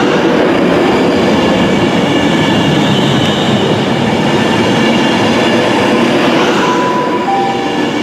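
Passenger train running along a station platform: a loud, steady rumble of wheels and traction with a faint high whine. Near the end come two brief steady tones, the second lower.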